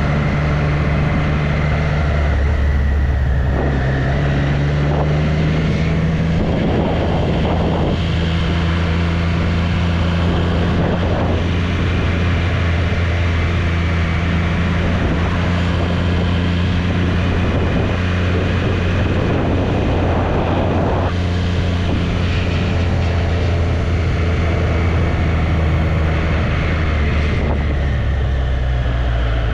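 Triumph Street Triple's inline three-cylinder engine running at a steady pace under way, its note shifting a few seconds in, with wind rushing over the microphone in swells.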